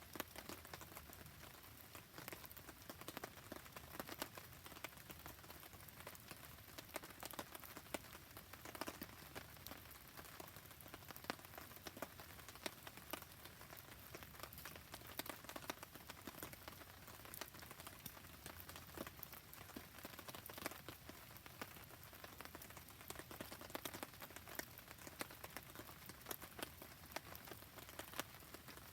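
Steady rain falling on surfaces, with a dense scatter of small sharp ticks and crackles from the rain and a wood campfire burning alongside.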